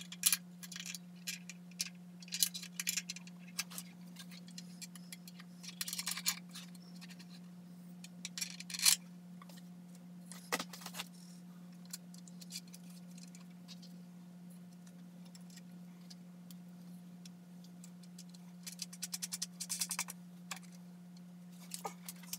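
Metal hardware clinking and clicking irregularly as screws and hand tools are handled while a miter saw is fastened to its stand's mounting rails, the loudest clink a little before halfway, with a steady low hum underneath.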